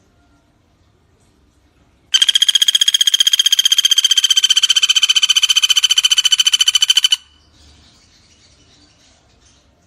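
Pelatuk bawang (Sunda pygmy woodpecker) giving one rapid, even rattling trill of about five seconds, starting about two seconds in and cutting off suddenly. Faint chirps of other birds can be heard before and after it.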